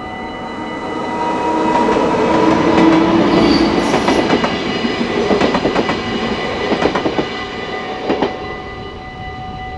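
Yellow NS double-deck passenger train passing over a level crossing, a rushing noise that swells and fades, with the wheels clicking over rail joints in clusters between about five and eight seconds in. Under it, the crossing's warning bell rings with a steady tone.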